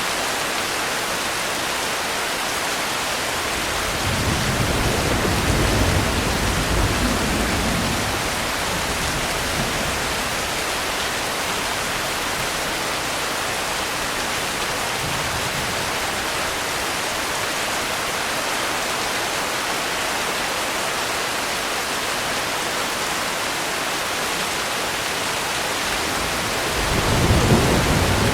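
Steady rainfall hissing, with two low rumbles of thunder: one swelling about four seconds in and fading over several seconds, another building near the end.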